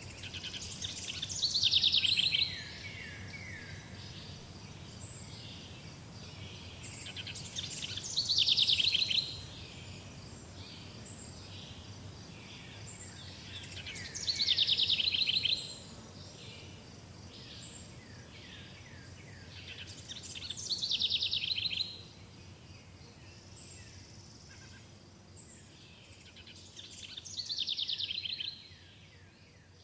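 A songbird singing the same short song five times, about every six and a half seconds: a fast high trill that drops into a few lower notes at the end. Fainter chirps and a low steady hiss lie underneath.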